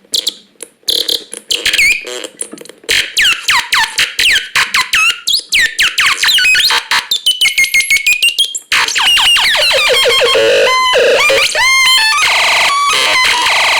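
Electronic synthesizer sounds. Scattered clicks and stutters at first, then a quick run of laser-like zaps that fall in pitch, several a second. From about nine seconds in come repeated tones that jump up in pitch and hold, over a steady hiss.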